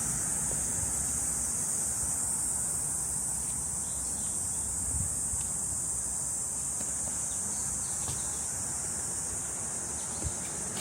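Cicadas buzzing in one steady, unbroken high-pitched drone, with a faint low rumble underneath.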